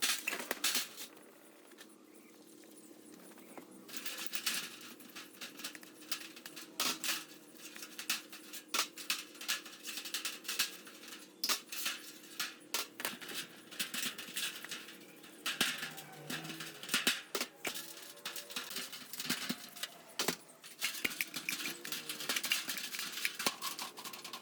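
Irregular light clicks, taps and clinks of small hard objects being handled, coming thicker in the second half, over a faint steady hum.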